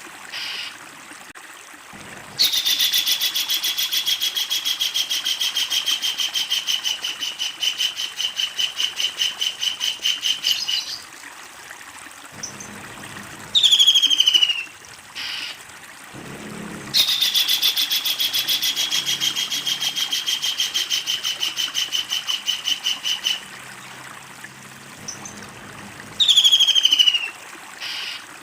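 Kingfisher calling: two long, fast rattling trills, the first about eight seconds and the second about six, each followed a few seconds later by a short call that slides downward in pitch.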